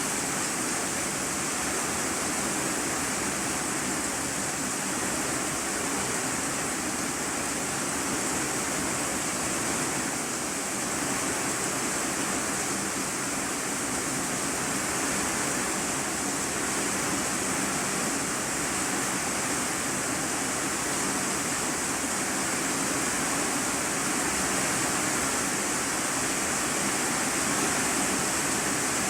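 Heavy rain drumming steadily on an iron-sheet roof, heard from the room beneath it as an even hiss without a break.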